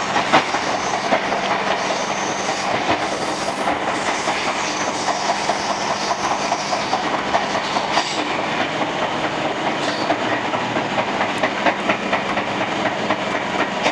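Interior noise of a Sydney Trains S-set double-deck suburban carriage on the move: wheels clattering over the rails with a steady low hum, as the train runs into a station.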